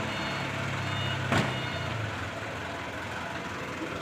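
Mitsubishi Canter PS125HD dump truck's diesel engine running steadily at a low hum while the truck stands stopped, easing slightly about two seconds in. A single sharp knock comes about a second and a half in.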